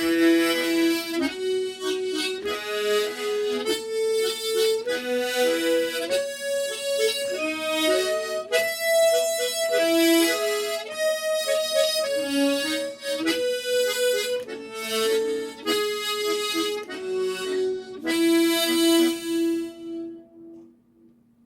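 Harmonica in D playing the Slow GoGo rhythm in quarter notes, octave-and-fifth chords alternating with fifth and third bass notes, as a rhythm exercise. The melody climbs a scale step by step to a high note about nine seconds in, comes back down, and stops shortly before the end.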